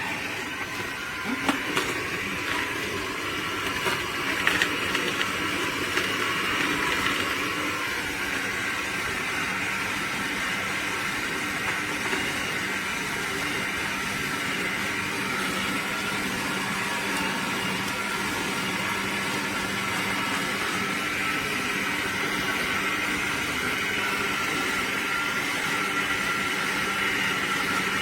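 Electric juicer motor running steadily with a constant hum and whine, with a few sharp knocks in the first few seconds.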